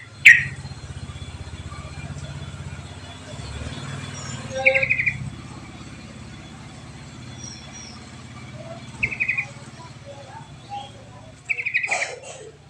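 Yellow-vented bulbul calling: four short, rapid chattering trills a few seconds apart, the first and loudest right at the start, over a steady low hum.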